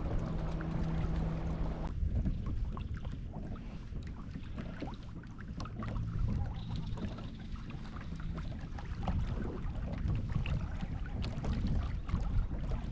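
Wind rumbling on the microphone and water splashing lightly against a kayak, with scattered small ticks. A steady low hum stops about two seconds in.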